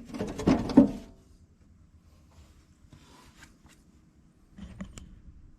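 Clunks and knocks from parts being worked loose on a backhoe's dash, with two loud knocks in the first second and a few faint clicks near the end.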